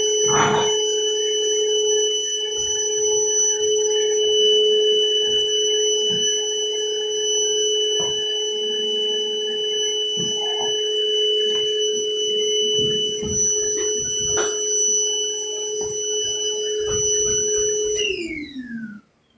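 Vacuum cleaner motor running with a steady whine, with scattered knocks and clicks as the nozzle picks up dirt from the subfloor. Near the end it is switched off and the whine falls in pitch as the motor spins down.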